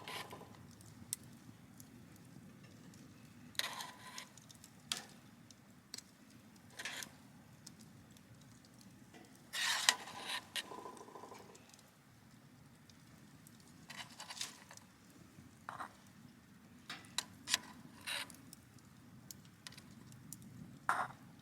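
Scattered clinks, taps and scrapes of metal cookware and utensils being handled, the busiest stretch about ten seconds in, over a low steady background rumble.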